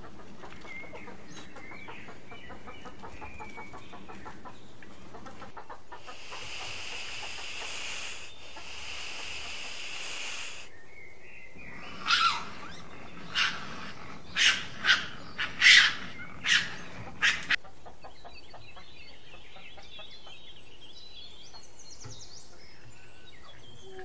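A steady high buzz for about four seconds, then a run of about eight short, sharp, high-pitched raccoon calls spread over five seconds, followed by faint chirps.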